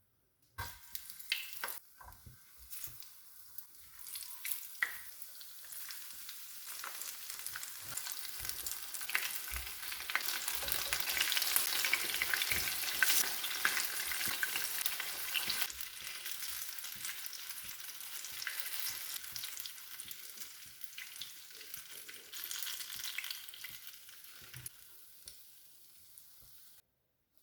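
Battered apple slices frying in hot oil in a pan, with steady crackling and sizzling. A few sharp clicks come in the first seconds. The sizzle is loudest in the middle, eases off, and cuts off suddenly near the end.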